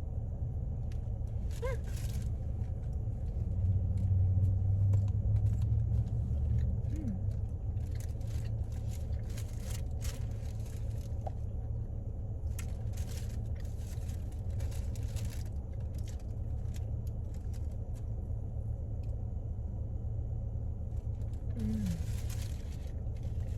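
Steady low rumble of a car idling, heard from inside the cabin, swelling for a couple of seconds near the start, with intermittent soft rustling and crinkling.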